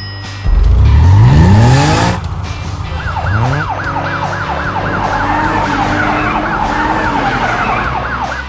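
Cartoon vehicle sound effects: an engine revving up with a steeply rising pitch about half a second in, then a fast wailing emergency-vehicle siren that rises and falls several times a second, over background music.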